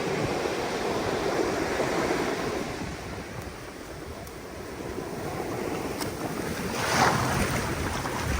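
Ocean surf washing onto the beach, swelling and easing, with a louder wash about seven seconds in. Wind rumbles on the microphone underneath.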